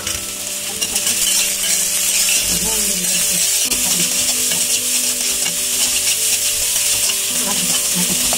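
Onion, ginger, garlic and chopped green chillies sizzling in hot oil with cumin as they are stirred in the pan; the sizzle grows louder about a second in and then holds steady.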